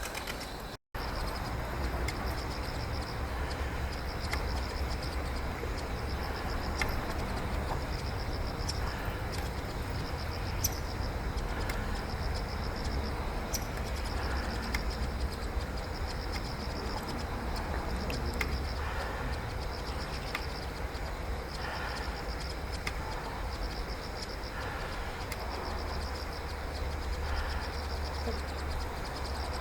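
Insects trilling in repeated high phrases of about a second each, over a steady low rumble.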